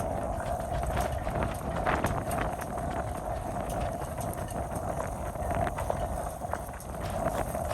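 Strong wind buffeting the microphone, with a steady rumbling hiss and scattered light clicks and knocks.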